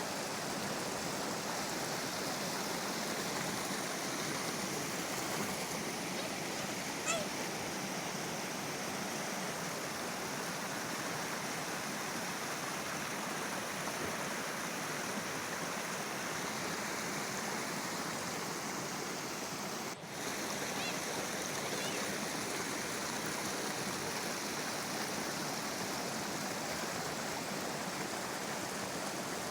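River water babbling and rushing steadily, with a brief break about two-thirds of the way through.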